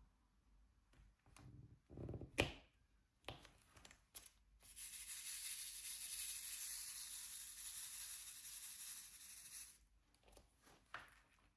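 Diamond-painting materials being handled: a few light taps, then a steady rustling hiss for about five seconds that stops abruptly.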